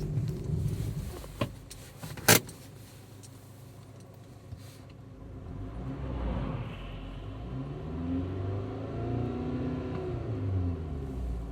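Skoda Yeti 1.8 TSI (CDAB) under way in frost with a cold engine, making a strange whistle that rises and falls in pitch from about halfway through, over a low engine rumble. A sharp click comes about two seconds in.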